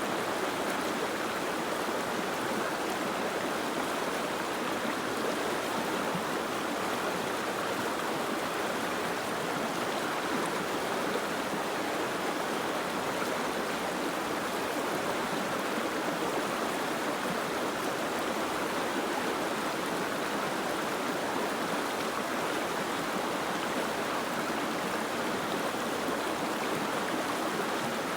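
Steady, unbroken rushing of water, even in level throughout, with no separate drops or splashes standing out.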